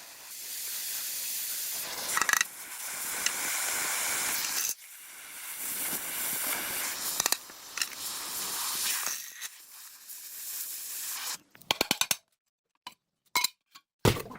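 A hissing spray running in long bursts that stop and start, followed near the end by a few sharp clicks in near silence.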